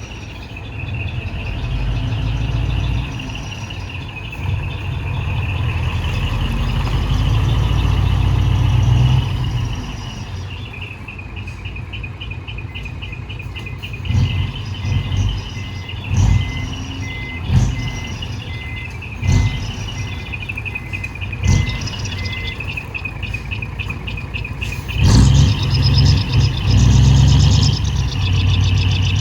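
Hino Profia Terravi truck's V8 diesel revving through straight-through twin exhausts. A long rev builds over the first several seconds and the engine settles lower. Then come five short throttle blips about every two seconds, and near the end a sustained high rev; a faint evenly repeating beep sounds through the middle stretch.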